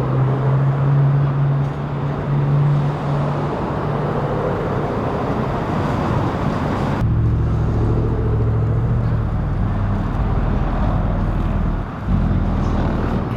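Vehicle engine running steadily, a low hum, over street traffic noise; the sound changes abruptly about seven seconds in, to a different low engine hum.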